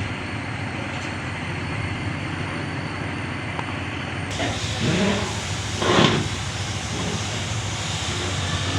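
A vehicle engine running steadily, with two brief louder noises in the second half.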